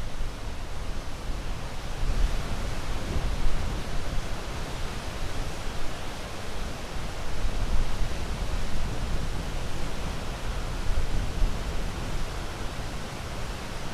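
Sea surf: a continuous rushing wash of waves with a deep rumble underneath that swells and eases every few seconds.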